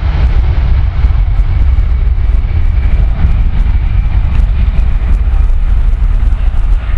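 Boeing 757-200 jet engines at take-off power, a loud, steady low rumble with a faint whine above it, mixed with wind buffeting the microphone.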